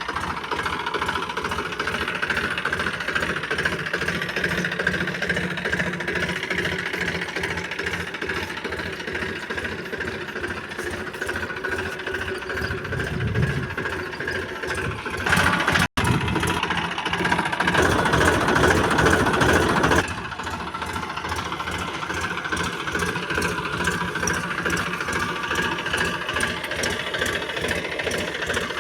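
TAFE Massey Ferguson 5245 DI tractor's three-cylinder diesel engine running with an even knocking rhythm, louder for about four seconds just past halfway.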